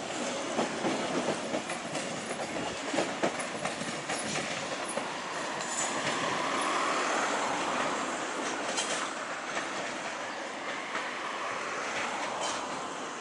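A train passing on the tracks, its wheels clacking over rail joints and points. A broad rushing rolling sound swells in the middle and eases off near the end.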